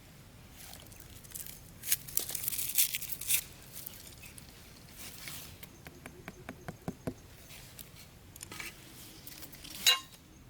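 Rustling and crinkling as materials are handled, with a dense burst of crinkling about two seconds in, a few light ticks in the middle, and one sharp click near the end.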